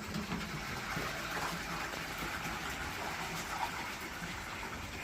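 Steady whooshing hiss from a Lister CS stationary diesel being turned over by hand without firing.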